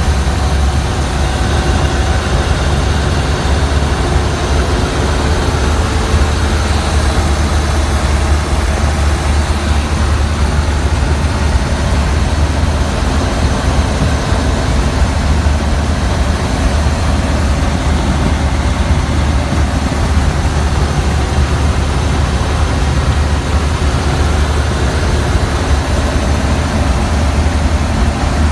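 1929 Ford Model A truck's four-cylinder flathead engine, with a Simmons Super Power head and twin Zenith updraft carburettors, running steadily under way: a loud, even low drone.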